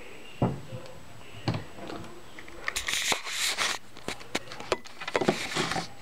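A few soft knocks and clicks, with two short bursts of rustling noise, one about halfway through and one near the end.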